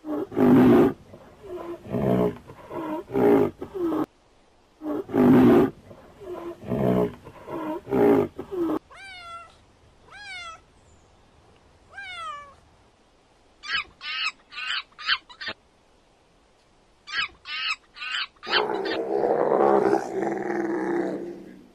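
A series of animal calls from different animals, one after another: a run of pitched calls, then three falling whistle-like calls, then quick high chirping notes, and one long call near the end.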